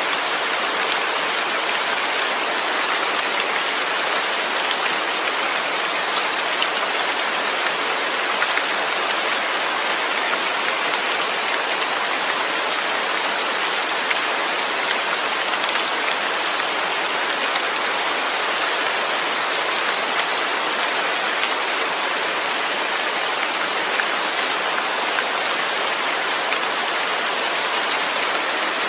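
Steady rain falling, an even hiss of drops on surfaces with no letup.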